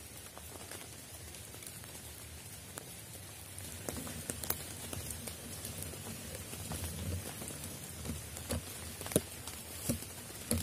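Raindrops pattering on rainforest leaves, with scattered sharp single drips that get a little louder and more frequent from about four seconds in.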